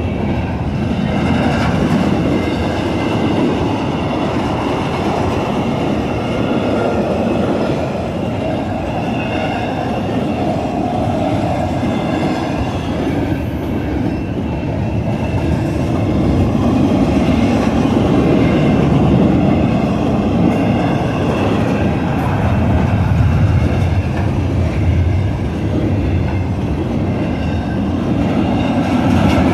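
Double-stack intermodal freight train rolling past: a steady loud rumble and clatter of the container cars' wheels on the rails.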